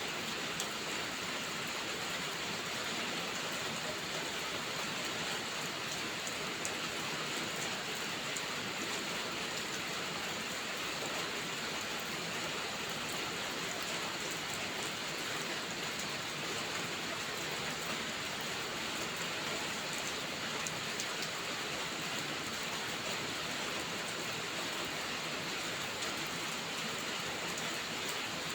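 Steady rainfall: an even hiss of rain, with scattered faint ticks of individual drops.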